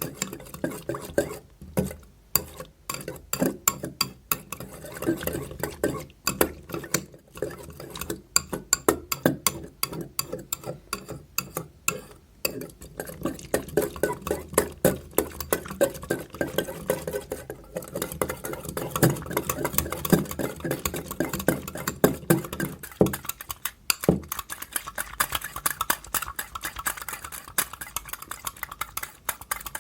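A spoon or spatula stirring a thick soap slime mixture in a bowl, with rapid, irregular clicks and scrapes of the utensil against the bowl. There is a brief pause about 23 seconds in.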